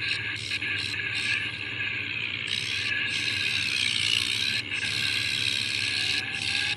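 Tractor engine running steadily, a constant mechanical noise with a low hum.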